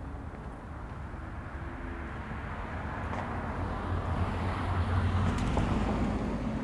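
A car driving past on a residential street: tyre and engine noise growing louder, loudest about five seconds in, then starting to fade.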